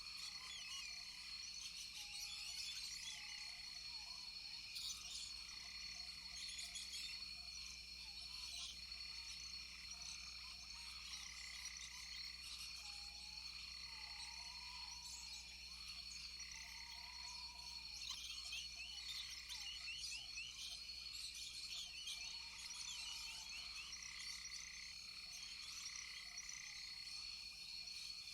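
Rainforest chorus of frogs and insects: a steady high insect trill, with frogs giving short calls that repeat every couple of seconds over many quick high chirps.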